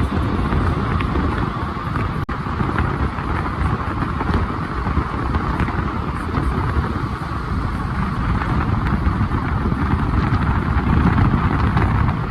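Steady road noise of a petrol Hyundai Grand i10 Sports being driven, a continuous rumble of tyres and engine with a band of hiss higher up, with a brief break about two seconds in.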